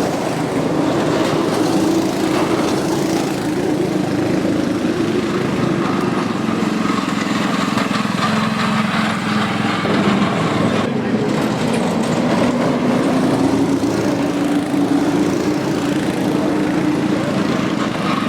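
Small cyclekart engines running, their pitch rising and falling as the karts speed up and slow down.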